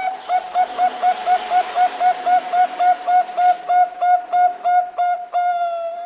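Zebra dove (Bangkok perkutut) calling: a quick run of short, hooked cooing notes at about four a second, closing with one longer drawn-out note that sinks a little at the end.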